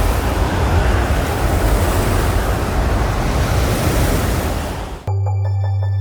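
Loud, steady rush of wind and sea with wind buffeting the microphone, heaviest in the low end. About five seconds in it cuts off suddenly and background music with a low drone takes over.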